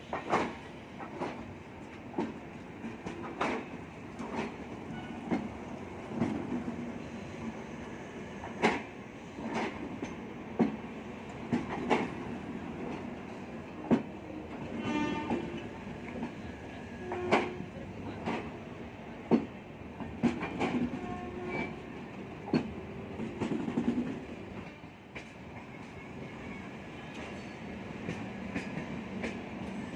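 Passenger train coaches rolling slowly, with irregular clanks and clicks of wheels over rail joints. A brief pitched tone sounds about halfway through.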